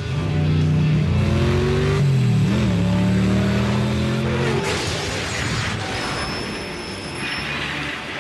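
Animated race-car engine sound effect, a steady engine note that dips and recovers a little over two seconds in and cuts off after about four and a half seconds, giving way to a rushing noise. Background music plays underneath.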